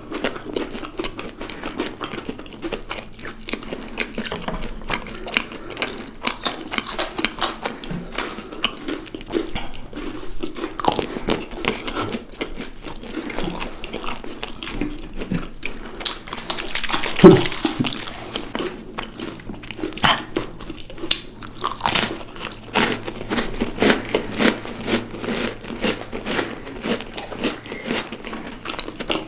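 Someone chewing and crunching chocolates close to the microphone: a continual run of sharp bites and mouth sounds, with a louder patch of crackling a little past halfway.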